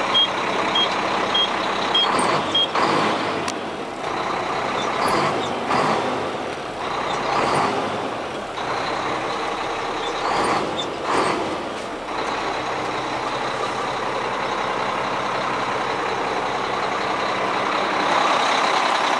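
A heavy diesel truck tractor's engine running, with its reversing alarm beeping about every 0.6 s for the first few seconds, then stopping. Uneven surges of noise follow for several seconds before the engine settles into steady running.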